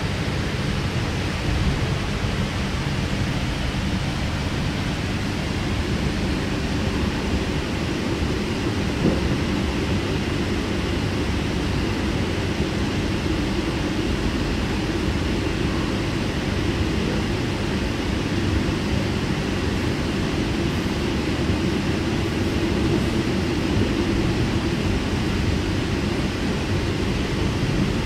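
Steady running noise inside a moving K-set double-deck electric train carriage: a continuous low rumble of the wheels and running gear on the track.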